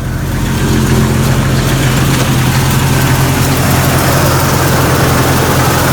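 1999 Jeep Cherokee's 4.0 L inline-six engine idling steadily.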